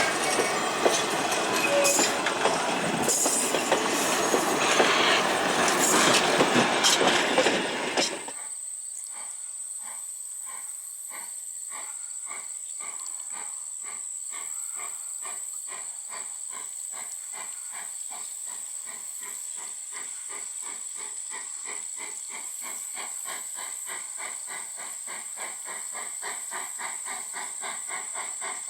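Train of the H.K. Porter 0-6-0T steam tank locomotive: loud clatter of wheels on the rails at first. After about eight seconds the sound drops suddenly to quieter, even exhaust beats at about two a second, under a steady high whine.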